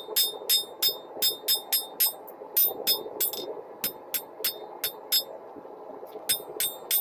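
Hand hammer striking hot rebar on an anvil, drawing out the blade: evenly paced blows about three to four a second, each with a bright metallic ring, pausing for about a second near the end before resuming. A steady rushing noise runs underneath.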